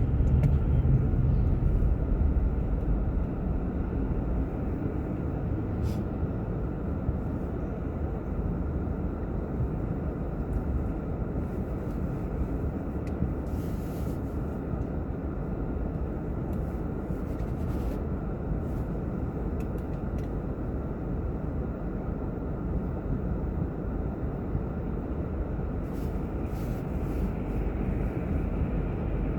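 Car driving, a steady low rumble of road and engine noise that is louder for the first couple of seconds and then settles, with a few faint clicks.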